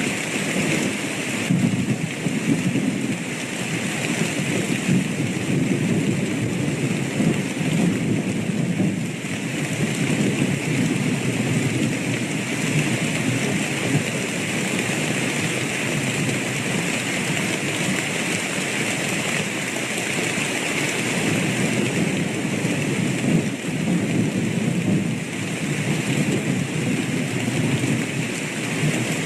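Steady heavy rain with a low rumble of thunder that swells and fades.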